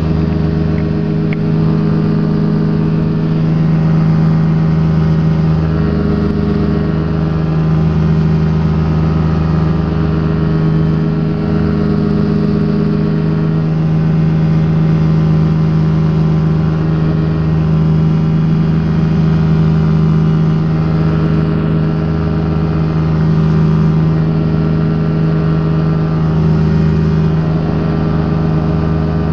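Rotax engine of a Quad City Challenger ultralight running at a steady, even power with a constant droning hum, heard from the open cockpit.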